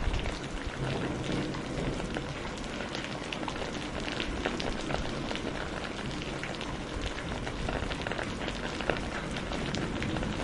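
Steady rain falling, a dense hiss with many individual drops pattering and ticking on a hard surface.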